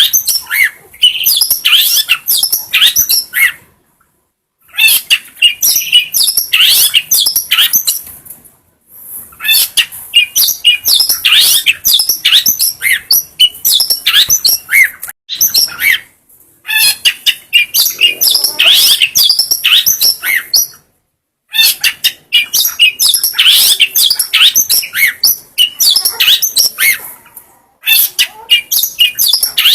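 Long-tailed shrike (cendet) singing a fast, varied chattering song in bursts of several seconds, broken by short silent pauses.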